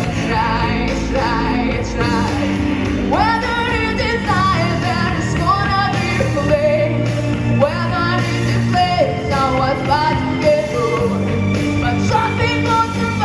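A female singer's voice over a pop backing track with bass and drums, the melody sliding up into long held, ornamented notes.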